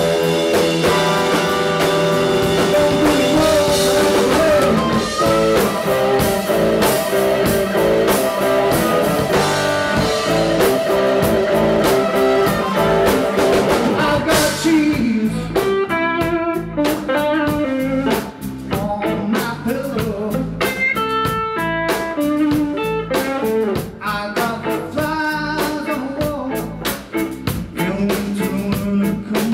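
Blues-rock band playing live with electric guitar and drum kit. About halfway through, the dense, sustained full-band sound thins out to separate, clearly picked guitar notes over the drums.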